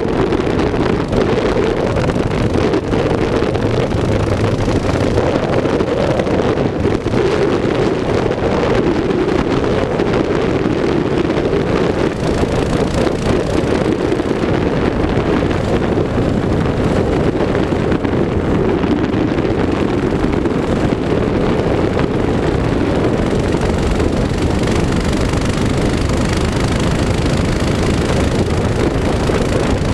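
Mini bike's small engine running steadily under way, with heavy wind buffeting the microphone.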